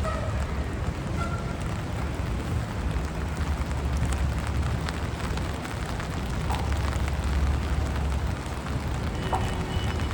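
Rain falling on a city street: a steady hiss of rain and wet tyres over a low traffic rumble. A faint thin tone, like a distant horn, comes in near the end.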